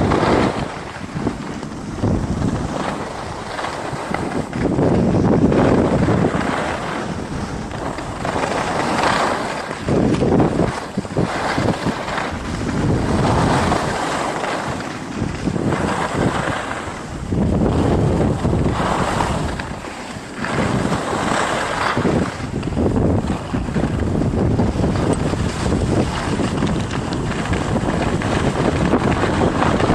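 Wind rushing over the microphone during a downhill ski run, swelling and dropping every second or two.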